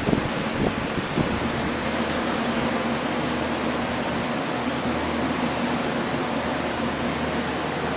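Steady rushing noise of air blowers running, with a few short knocks in the first second or so.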